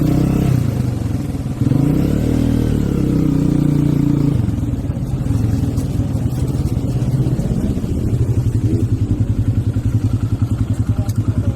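Hero Eco 150 single-cylinder motorcycle engine with a stage 2 tune, revving up and down in the first few seconds, then dropping to a lower, evenly pulsing idle-like beat for the second half.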